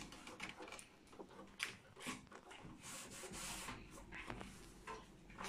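Faint rubbing swishes of a damp cloth wiping the inside walls of a microwave oven, in a few uneven strokes.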